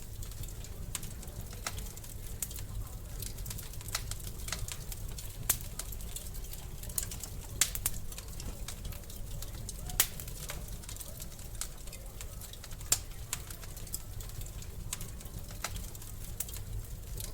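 Wood fire crackling in a fireplace: irregular sharp pops and snaps over a steady low rumble, the loudest pop about ten seconds in.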